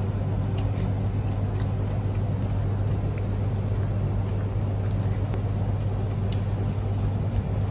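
Steady low electrical hum with an even, fan-like rushing noise from a running household appliance, with a few faint ticks.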